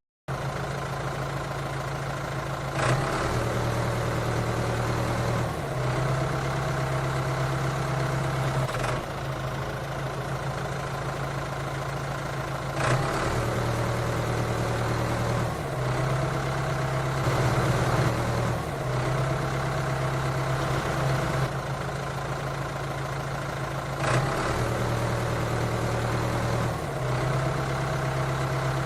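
An engine running steadily, its note shifting slightly every few seconds as if under changing load.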